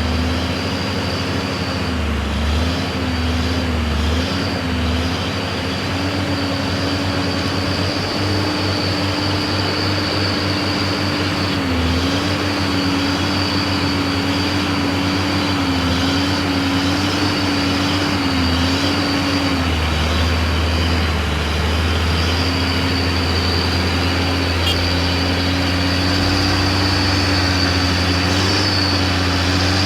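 Heavy truck's diesel engine running continuously under load on a slippery climb, its note wavering slightly up and down over a deep rumble, with a steady high whine above it.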